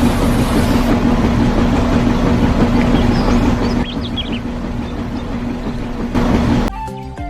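A vehicle engine running steadily with a constant hum, which cuts off near the end as tinkling music begins.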